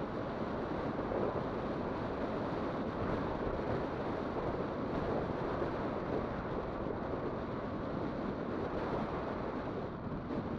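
Steady rushing wind noise on the microphone while riding an e-bike, mixed with rolling road noise.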